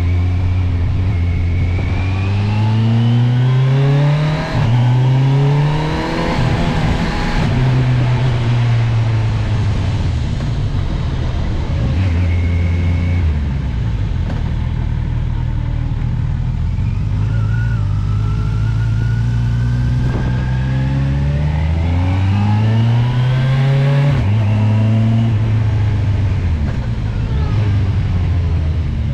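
Kawasaki motorcycle engine pulling up a winding mountain road. It revs up in pitch and drops back at each gear change several times, with a stretch of steadier, lower revs in the middle.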